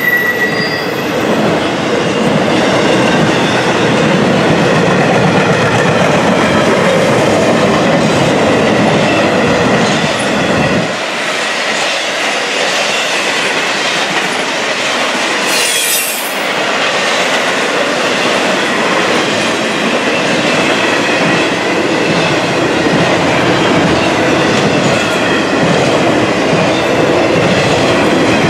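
Double-stack intermodal container cars rolling past, with steady wheel-on-rail noise and faint high wheel squeal over it. About eleven seconds in, the deep rumble drops away abruptly and the noise goes on thinner.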